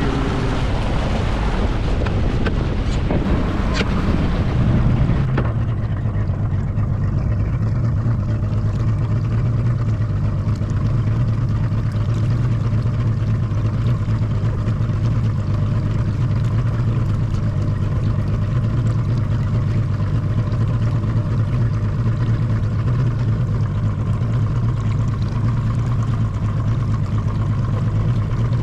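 Boat's 150 hp Yamaha outboard motor running at a steady pitch under way. Wind and water rush are loudest for the first five seconds or so, then the engine's even hum dominates.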